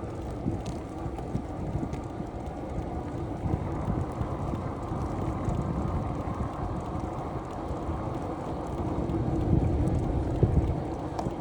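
Wind buffeting the microphone while cycling: a steady low rumble that swells a little near the end.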